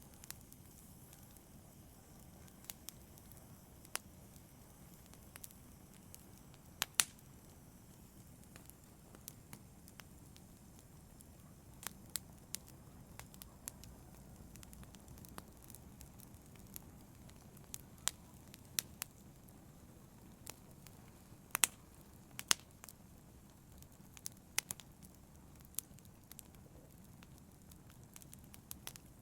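Wood fire burning in a fireplace: a soft steady hiss of flames with irregular crackles and sharp pops, a few of them louder.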